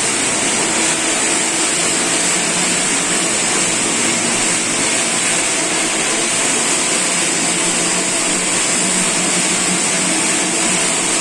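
Steady hiss of a TIG welding arc with the welding machine running, held unbroken while the torch is weaved along the joint.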